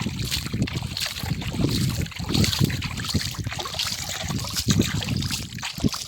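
Water sloshing and splashing with irregular handling knocks, as toy vehicles are washed.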